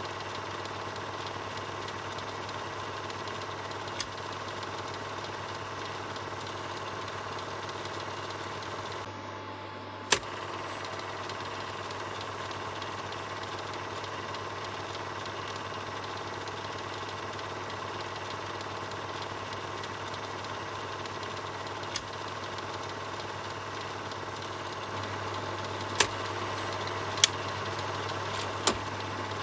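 Film projector running steadily: a continuous mechanical whir over a low hum, with occasional sharp clicks. The loudest click comes about ten seconds in, right after a brief dip, and three more come close together near the end.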